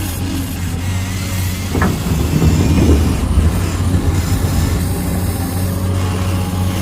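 Small electric motors and gearboxes of a Huina 1593 remote-control excavator whirring steadily, with louder scraping and rattling about two to three seconds in.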